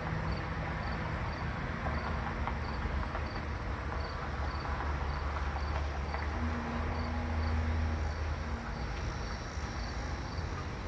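A cricket chirping at an even pace, a few short high chirps a second, over a low steady hum that grows louder near the middle.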